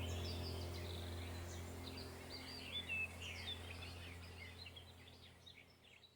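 Several birds chirping and twittering over a low steady hum, the whole sound fading out to near silence near the end.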